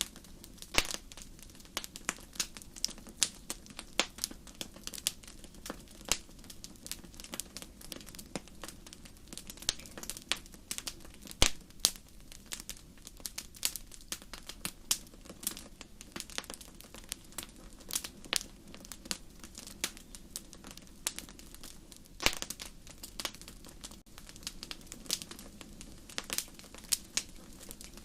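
Wood fire burning in a fireplace, crackling with many irregular sharp pops over a soft, steady rush of the flames; one louder pop about eleven seconds in.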